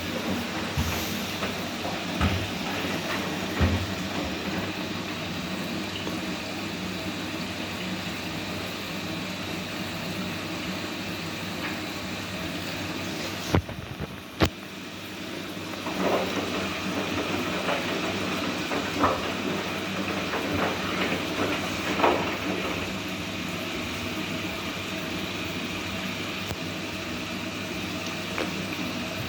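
Whirlpool washing machine running with a steady whirring noise and scattered light knocks; about halfway through the sound briefly drops, with two sharp clicks.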